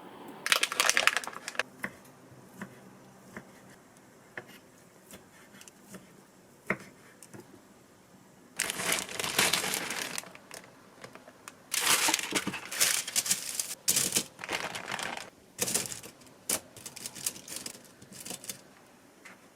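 Packaging being crinkled and rustled by hand, in irregular bursts with scattered small clicks and taps between them.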